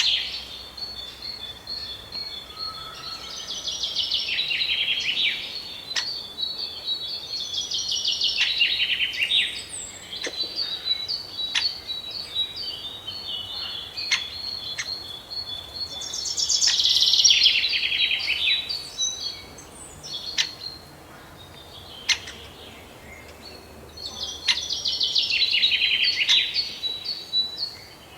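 A songbird singing: loud phrases of quick, rapidly repeated high notes come in bouts a few seconds long, about five times, with a thin steady high note carrying on between them.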